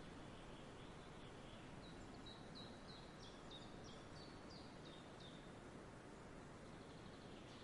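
Faint outdoor background hiss with a bird singing a run of about a dozen short, high notes, each sliding downward, at about three a second, starting about two seconds in.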